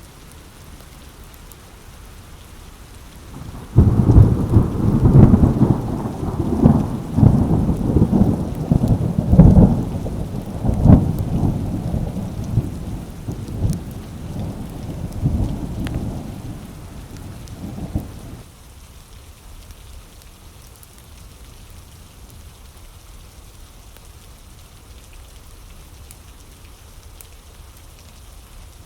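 Steady rain with a long crackling roll of thunder that breaks in about four seconds in, rumbles in a series of loud cracks for some fourteen seconds, fades and stops, leaving the rain alone.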